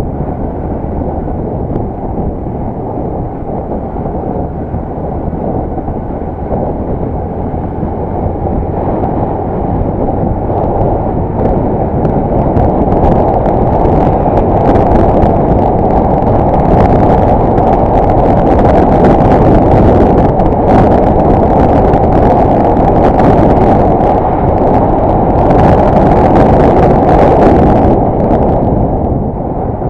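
Riding noise from a Yamaha YBR 125 single-cylinder motorcycle picked up by a helmet-mounted action camera: wind rushing over the microphone with the engine running underneath. It grows louder through the middle, with some crackling buffets, and eases off near the end.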